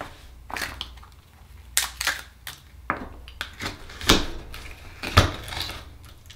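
Akoya oyster shell being opened and handled: a string of irregular sharp cracks and clicks of shell, the loudest two a little after four seconds and about five seconds in.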